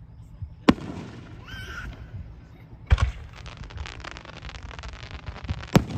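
Fireworks going off: three sharp bangs a couple of seconds apart, the middle one followed by a spell of rapid crackling.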